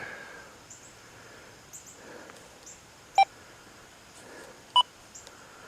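XP Deus II metal detector giving two short beeps about a second and a half apart, the second higher in pitch.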